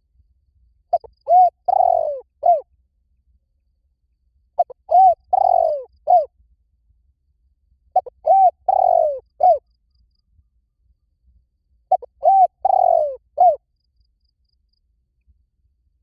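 Spotted dove cooing: four calls spaced about three and a half seconds apart. Each call is a couple of short coos, a longer coo that falls in pitch, then one short closing coo.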